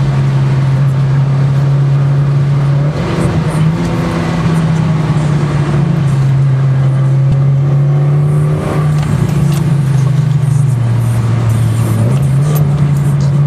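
Mitsubishi Lancer Evolution IX's turbocharged four-cylinder engine heard from inside the car, droning steadily under light throttle. Its pitch rises a few seconds in, again just before the middle, and dips near the end before rising again as the car accelerates and eases off.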